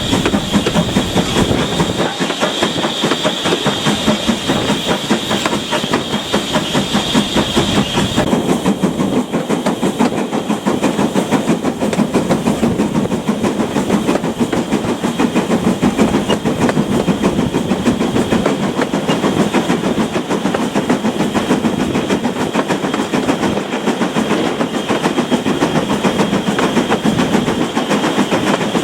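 Steam train running along the line: a fast, even rhythm of beats and wheel noise that holds steady throughout. A high, steady squeal is heard over it and stops about eight seconds in.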